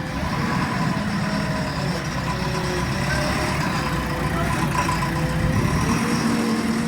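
Heavy diesel machinery engine running steadily at a low rumble, with a faint wavering whine above it.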